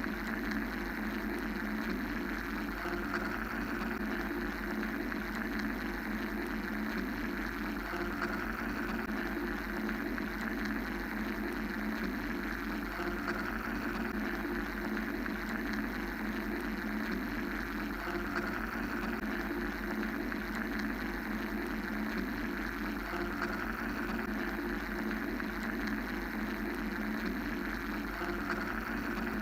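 Steady mechanical white-noise drone: an even rushing hiss over a low hum, with no breaks or rhythm.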